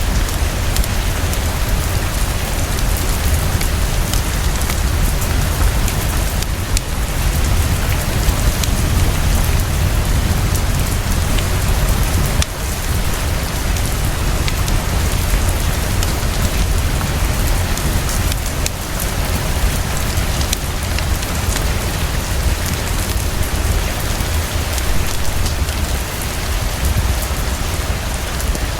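Heavy, steady rainfall with a constant deep low rumble beneath it and scattered small crackles from a wood fire burning in a fireplace.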